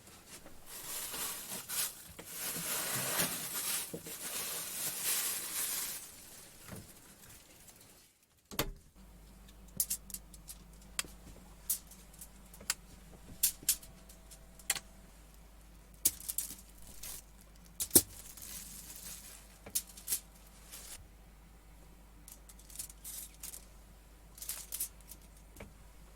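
Rustling and crinkling handling noise for several seconds, then, after a break, a faint steady low hum with scattered small clicks and taps.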